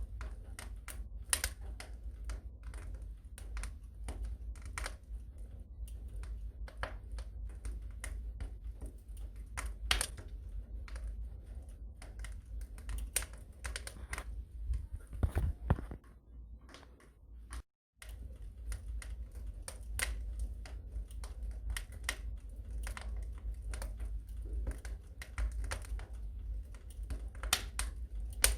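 Wood fire crackling in a fireplace: irregular pops and snaps over a low steady rumble. About sixteen seconds in the sound fades and drops out for a moment, then the crackling resumes.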